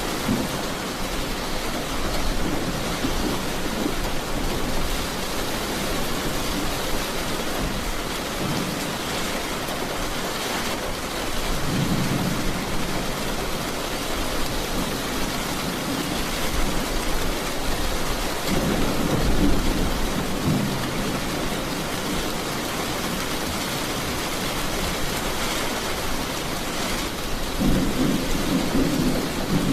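Heavy rain falling steadily with rolls of thunder; low rumbles swell up about 12 s, 19 s and 28 s in.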